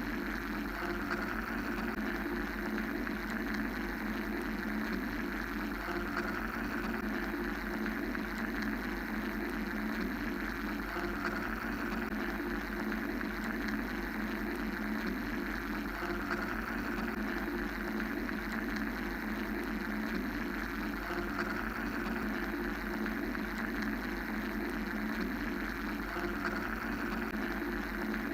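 Steady mechanical white-noise drone: a low humming band and a deep rumble under a higher hiss that swells and fades about every five seconds.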